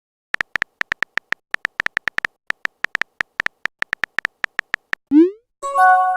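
Chat-app sound effects: a rapid, uneven run of short high electronic beeps, like text being typed out, then a quick upward swoop and a short chime-like message tone near the end.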